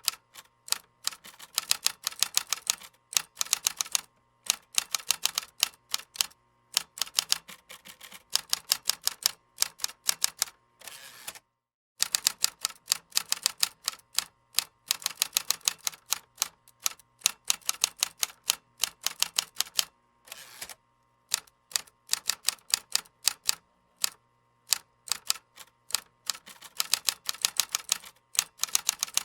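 Typing on a computer keyboard: fast runs of key clicks in uneven bursts, with short pauses between them. A brief break in the typing falls a little under halfway through.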